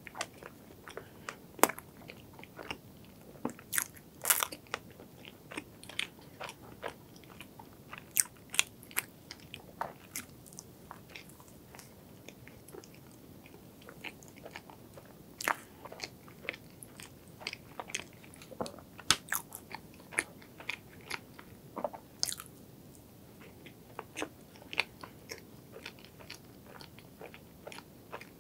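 Close-miked eating sounds of soft cream-filled strawberry cake: chewing with sharp, irregular, sticky mouth clicks and smacks, a lull about halfway through.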